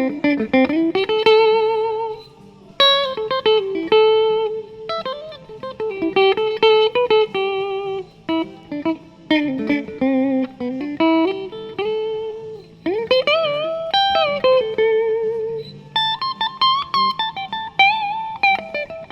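Epiphone Les Paul Plus Top Pro electric guitar played clean through a Blackstar tube amp. It plays single-note blues lead lines with string bends that rise in pitch and wavering vibrato on held notes. The pickup selector is in the middle position with the front humbucker coil-split.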